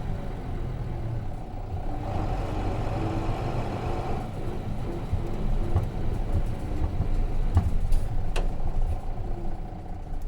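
Nissan Diesel RM bus's FE6 six-cylinder diesel engine running steadily, heard from inside the bus. Two sharp clicks come about a second apart near the end.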